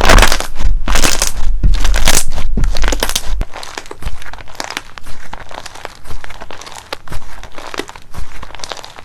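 Slime being squeezed and pressed by hand, giving a run of crackling, crinkling pops. The squeezes are loud for the first few seconds, then fall away to quieter scattered crackles.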